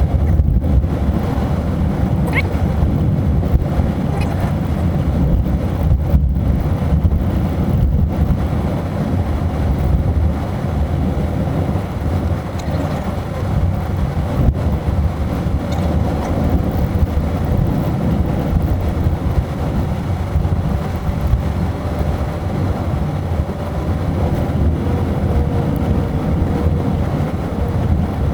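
Car driving: a steady low rumble of engine and road noise, with wind noise over it.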